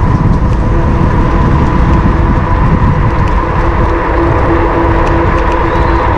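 Wind rushing and buffeting on the camera's microphone while riding an electric bike, with a steady whine over it that grows stronger about halfway through.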